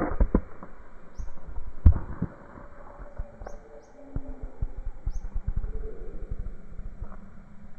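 A bird giving short, high, falling chirps, one every second or two. Under them run a low rumble and many thumps, the loudest a sharp knock about two seconds in.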